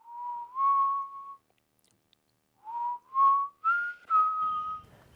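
Whistling: a short melody of clear single notes. Two notes step upward, then after a pause of about a second four more notes climb a little higher and settle.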